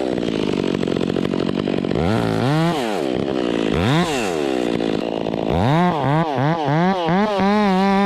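Chainsaw running: it works through wood for the first two seconds, then is revved up and down several times, its pitch rising and falling, before holding a steady high rev near the end.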